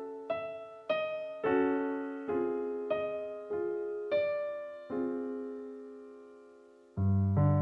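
Nord Electro 6D stage keyboard playing a piano sound: notes and chords struck about every half second, each fading away, with the last chord left to die out. About seven seconds in, a louder, sustained sound with low bass notes comes in suddenly.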